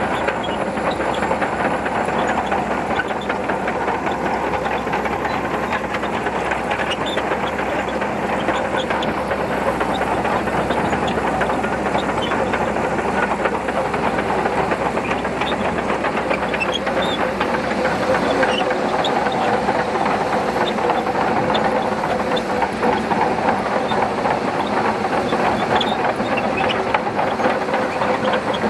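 Shantui DH17C2 bulldozer's diesel engine running steadily while it pushes sand, with a constant dense clatter of small clicks from its steel tracks.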